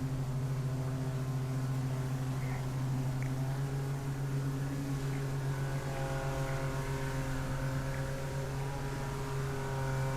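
Inflatable jet boat's outboard motor running at a steady, even speed under way on the river.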